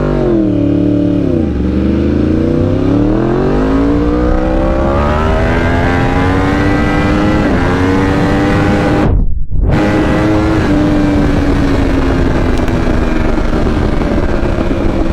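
High-performance engine under hard acceleration. Its pitch dips briefly at the start, climbs steadily for several seconds as it pulls, cuts out for a moment just after nine seconds, then holds high and eases off slowly.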